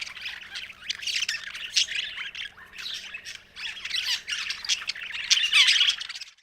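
Budgerigar chattering: a fast, busy run of chirps, warbles and squawks that stops abruptly about six seconds in.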